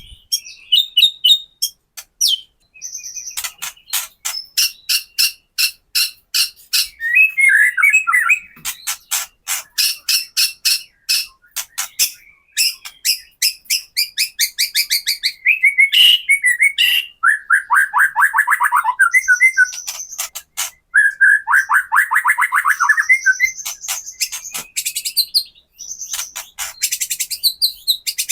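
White-rumped shama singing its 'kretekan' song: rapid runs of sharp, rattling repeated notes, broken by fast trills and short high whistles. This is the aggressive, provoking song that is played to other shamas to make them sing and show fight.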